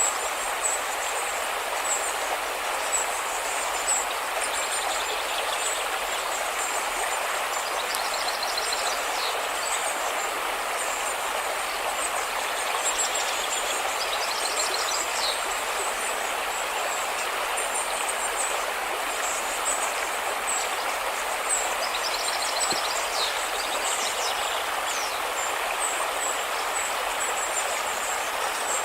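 River water rushing steadily, with high chirps and a few short rapid trills over it.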